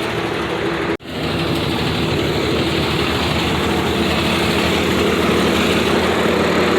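Motor vehicle engine running steadily, with a sharp break in the sound about a second in.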